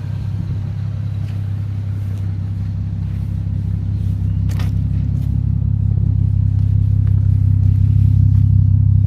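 Toyota Supra Mk3's straight-six engine idling steadily, getting gradually louder.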